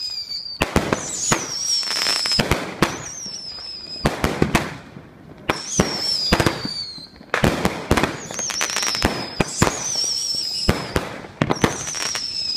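Consumer fireworks going off in quick succession. There are about six high whistles, each lasting a second or two and falling slightly in pitch, mixed with many sharp cracks and pops.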